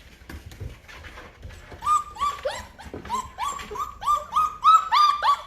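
Great Bernese puppy whining in a quick run of short, high-pitched yelps. It starts about two seconds in and grows louder near the end.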